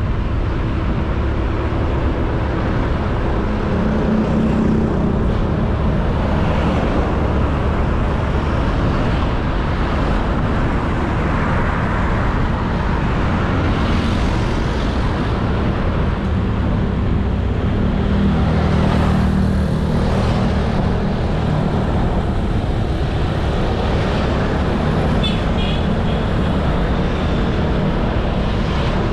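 Honda Beat 110cc scooter's single-cylinder engine running steadily while riding, with wind and road noise on the camera. The engine note swells a little about four seconds in and again around eighteen to twenty seconds, and a brief high chirp sounds about 25 seconds in.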